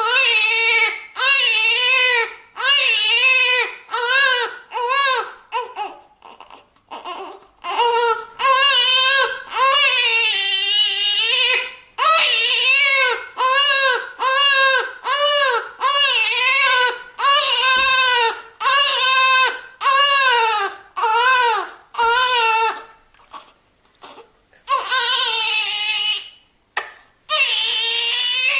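A newborn baby crying hard in repeated short wails, each rising and falling in pitch, with quick gasps for breath between them. Twice the crying drops to soft whimpers for a couple of seconds before the wailing starts again.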